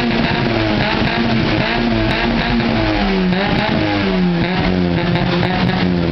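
Fiat Punto Sporting 85 16V's four-cylinder engine through a Ragazzon aftermarket exhaust, revving up and down in short swells, then holding steadier and starting to drop in pitch near the end.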